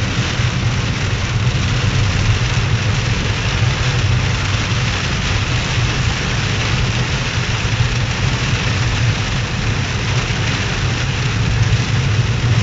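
Heavy rain drumming on a moving car, heard from inside the cabin, over the steady low hum of the engine and road. Steady, with no break.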